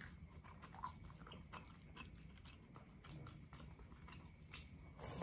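Faint chewing of stewed beef and bone-marrow soup, with scattered small wet mouth clicks and a sharper click about four and a half seconds in.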